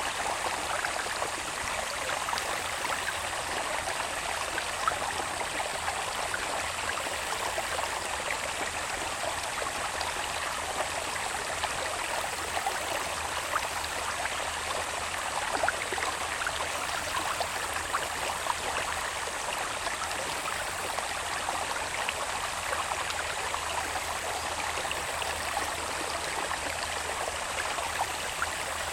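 A small irrigation channel running down from the hills, babbling and trickling in a steady rush flecked with many tiny splashes. A faint steady high tone of insects sits above it.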